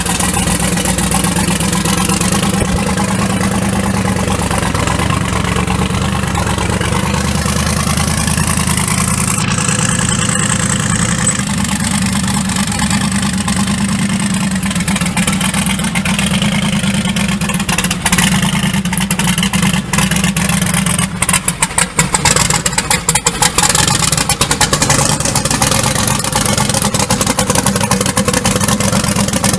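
A 5.3-litre V8 truck engine running steadily, with a choppy, pulsing stretch about two-thirds of the way through.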